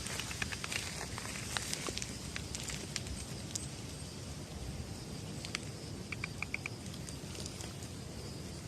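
Steady hiss of wind and light rain, with scattered small ticks and a quick run of five short high chirps about six seconds in.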